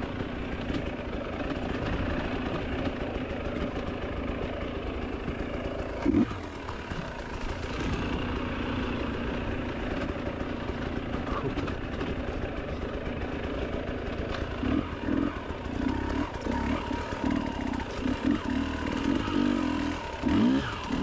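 Enduro motorcycle engine running steadily, with repeated short revs in the second half.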